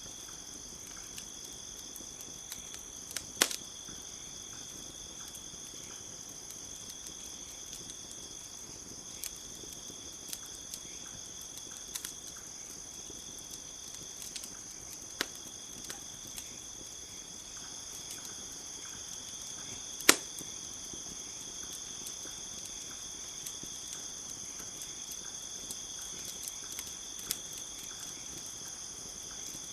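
Campfire crackling with scattered small pops over a steady chorus of night insects. Two sharper pops stand out, one a few seconds in and a louder one about two-thirds of the way through.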